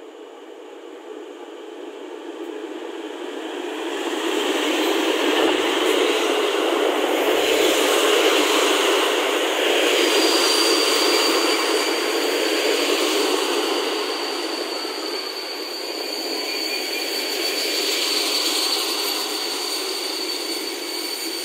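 Passenger train hauled by an EP09 electric locomotive pulling into a station. The locomotive's rolling noise swells to a loud rush about four seconds in and the coaches keep rolling by. From about halfway a steady high squeal comes in as the train brakes to a stop.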